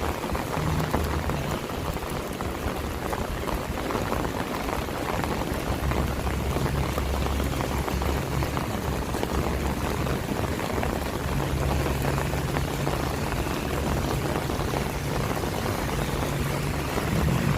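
Steady rain falling and splashing, with a low engine hum from passing or idling traffic that comes and goes underneath.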